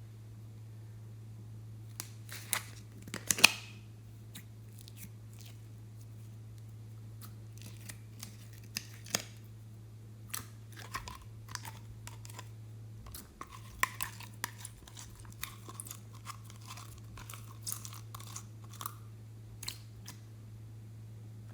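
Slime being worked by hand: scattered sticky clicks, pops and crackles, starting about two seconds in and coming thickest near the middle. A low steady hum runs underneath.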